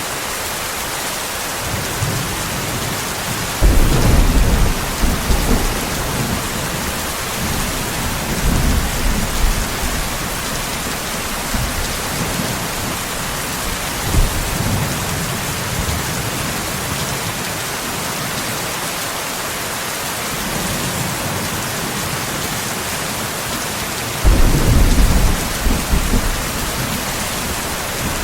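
Steady rain hissing throughout, with rolls of thunder rumbling underneath: two stronger claps starting suddenly about four seconds in and near the end, and softer rumbles between.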